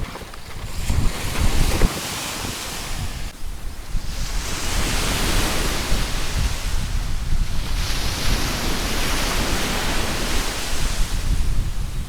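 Sea surf washing onto a beach, the hiss of the waves swelling about four seconds in and again about eight seconds in, with wind rumbling on the microphone.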